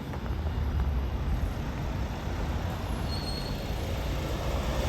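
Bus engine running, a steady sound mostly low in pitch, with a brief high tone about three seconds in.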